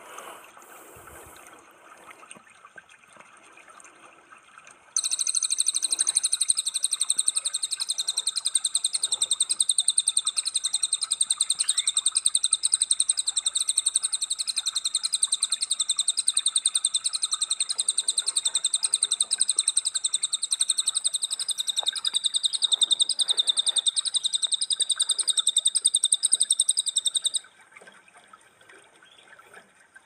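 Faint background, then about five seconds in a songbird starts a loud, very fast, unbroken high trill. It holds steady for over twenty seconds and stops abruptly near the end.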